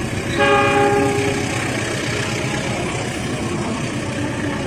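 Departing long-distance passenger train: one horn blast of about a second, a chord of several tones, just after the start, over the steady rumble and clatter of passenger coaches rolling past close by.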